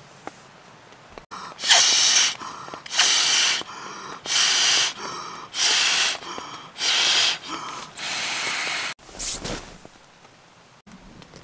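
A person blowing out six hard, long breaths, a little over a second apart, then a short rustle near the end.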